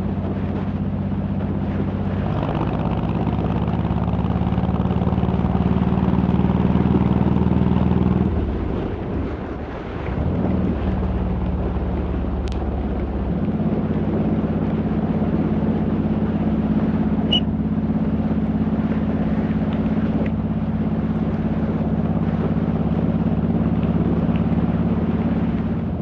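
Honda VTX1800 cruiser's big 1800 cc V-twin running on the road. The exhaust note falls away and wavers for a few seconds about nine seconds in, then settles back into a steady drone.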